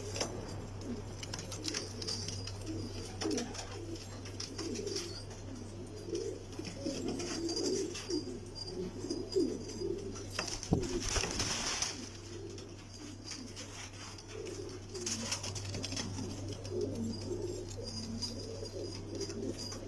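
Domestic pigeons cooing over and over, several calls overlapping, over a steady low hum. About eleven seconds in there is a brief rustling noise.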